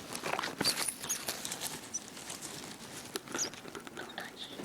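Several short, high bird chirps scattered through, over soft rustling and light clicks.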